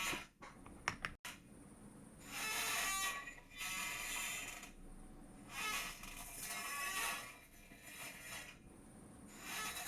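A chair creaking in repeated drawn-out squeaks every second or two, with a few sharp clicks about a second in.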